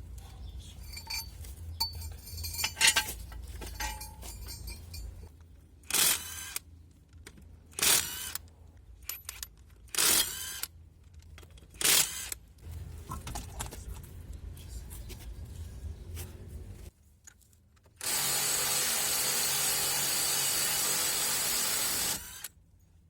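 Tool work on metal: light clinks and scrapes, then four short loud bursts of noise about two seconds apart, and near the end about four seconds of a steady loud rushing noise.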